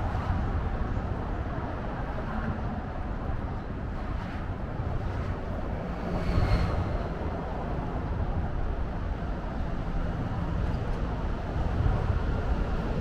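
Steady low rumble of outdoor city ambience, a little louder about halfway through.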